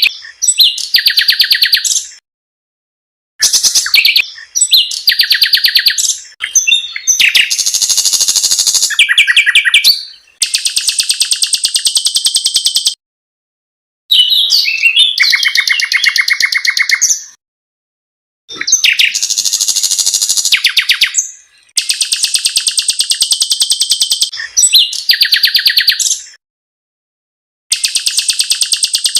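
Recorded songs of small songbirds in a compiled training track: phrases of fast trills and rough, rattling notes, each two to four seconds long, cut off abruptly and separated by short silences.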